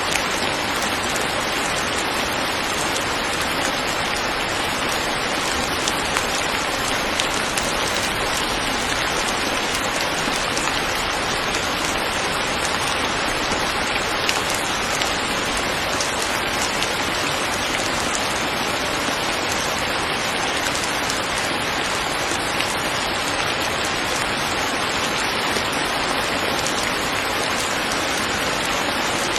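Steady, even rain falling, a dense hiss of drops with a few sharper drop hits now and then.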